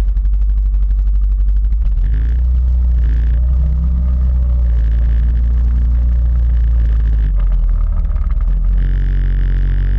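Quad bike (ATV) engine running with rapid, even firing pulses, then revving up and pulling away about two seconds in. It eases off briefly late on and revs up again near the end.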